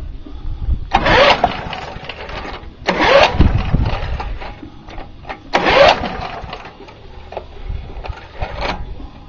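Small lawnmower engine being pull-started: three hard yanks on the recoil starter cord, each a whirring rush that falls in pitch, then a weaker pull near the end. The engine turns over but does not keep running.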